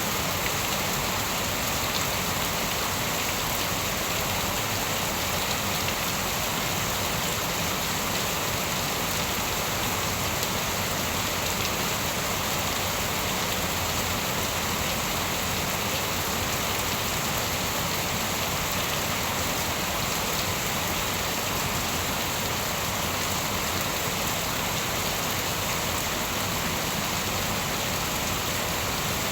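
Steady rain falling on a surface, an even, unbroken hiss of drops.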